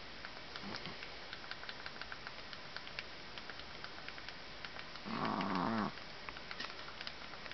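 An exhausted sleeping puppy snoring: a soft snore about a second in, then one loud, wavering snore about five seconds in that lasts just under a second. Faint irregular clicking runs underneath.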